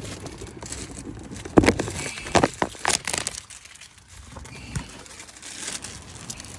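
Plastic flower wrapping being handled and crinkled, a run of irregular crackles loudest in the first half, then quieter rustling.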